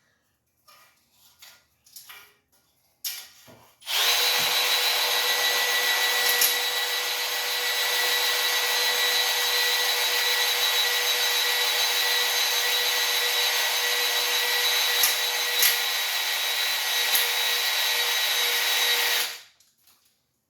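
Electric drill spinning a cylinder hone in a bore of a Ford 289 V8 block, honing the cylinder wall smooth. It starts about four seconds in after a few light knocks, runs steadily with a constant whine for about fifteen seconds, then stops abruptly.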